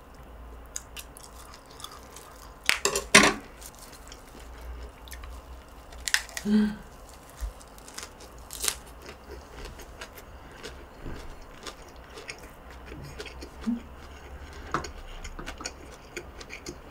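Close-miked chewing and biting of a mouthful of lettuce wrap (ssam): wet mouth sounds with crisp crunches, the sharpest cluster about three seconds in and more around six and nine seconds.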